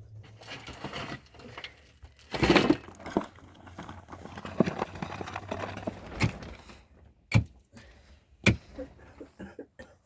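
Scattered handling knocks and clicks, with a louder rustling crash about two and a half seconds in and two sharp clicks near the end.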